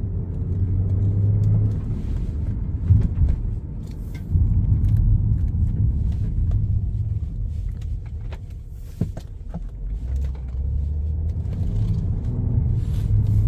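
BMW 5 Series GT 35i on the move, heard from inside the cabin: a steady low hum of its 3.0-litre turbocharged straight-six and road noise, easing off about two thirds of the way through, with a few faint clicks.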